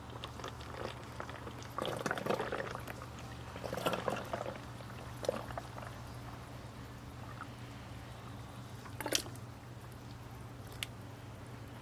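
Motor oil pouring and dripping during an oil change, with scattered knocks and handling noises over a steady low hum.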